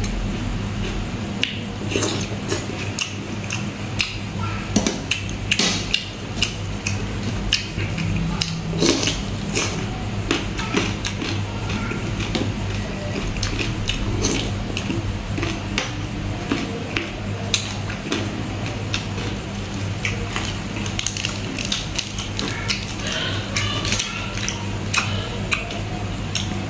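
Close-miked eating: crisp chewing and crunching of raw vegetables and fish salad, with wet mouth smacks and occasional light clicks of a spoon on the plate, over a steady low hum.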